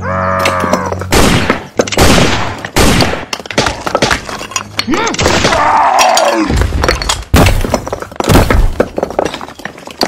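A rapid series of loud crashing, breaking impacts, with short pitched cartoon-like vocal cries shortly after the start and again about midway.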